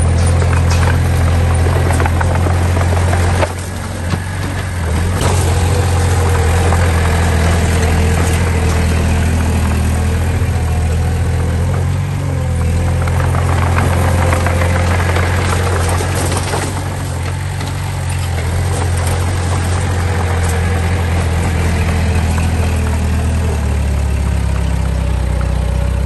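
Diesel engine of heavy earthmoving machinery running steadily at a low note. It dips briefly about three seconds in and settles to a lower pitch near the end.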